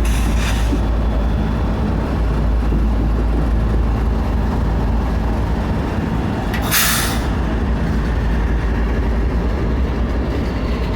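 Slow-moving loaded coal train passing, with a steady low rumble. A brief hiss comes about six and a half seconds in.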